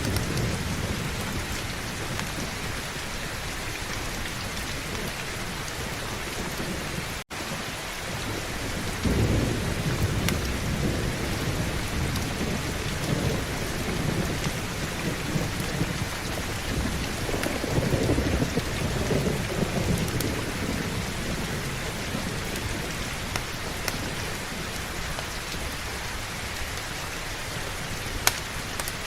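Heavy, steady rain with thunder rolling in low rumbling swells from about a third of the way in until past two-thirds. A split-second gap in the sound comes about a quarter of the way in.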